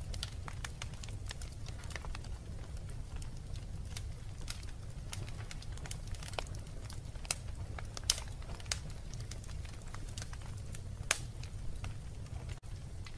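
Wood fire burning in a fireplace: a steady low rumble of flames with scattered sharp crackles and pops, the loudest about eight and eleven seconds in. The sound drops out for an instant near the end.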